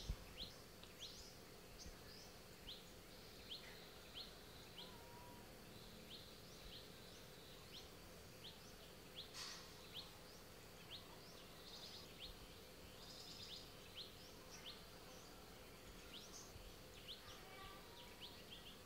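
Faint outdoor ambience: a bird repeating short, high, quickly rising chirps about once a second over a steady high insect drone. One louder, sharper call comes about nine seconds in.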